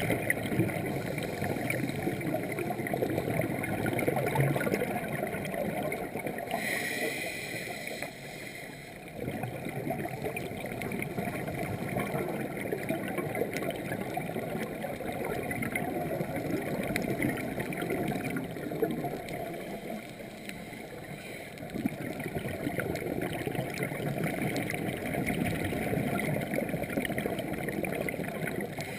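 Underwater gurgle and rush of a scuba diver's exhaled bubbles and regulator breathing, rising and falling with each breath, with a brief rising hiss about seven seconds in.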